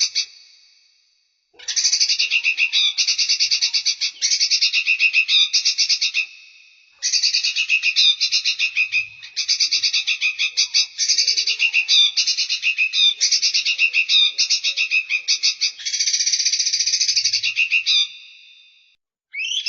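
Songbird song: fast, buzzy, pulsed trills repeated in strings of several seconds, broken by pauses of about a second near the start, about a third of the way in and near the end.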